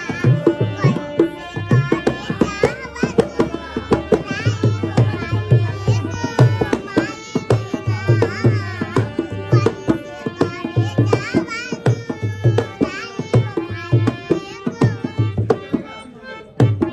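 Indian music: a tabla plays a steady rhythm with deep bass strokes under a melody line that bends and wavers in pitch.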